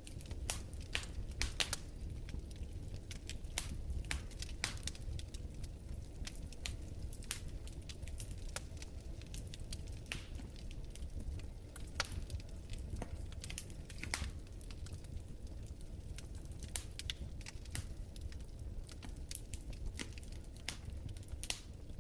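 Wood fire burning in a fireplace: a steady low rumble of flames with irregular crackles and snaps, a few louder pops among them.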